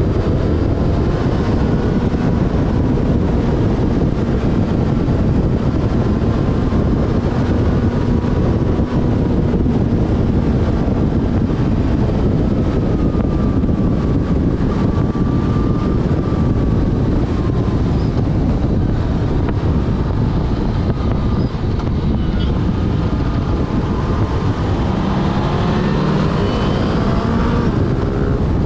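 Yamaha Fazer FZ6S inline-four engine running at road speed, heavily overlaid by wind buffeting on the microphone. Near the end the engine note climbs as the bike accelerates.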